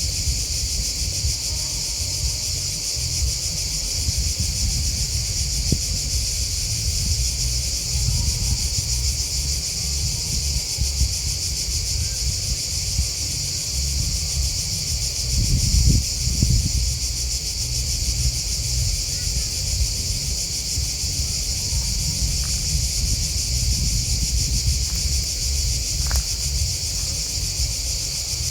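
A steady, unbroken chorus of crickets and grasshoppers chirping, a high continuous shrill. Underneath runs an uneven low rumble that swells briefly about halfway through.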